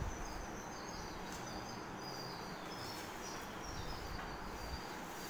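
Steady room noise with a small bird chirping, many short high notes in quick runs.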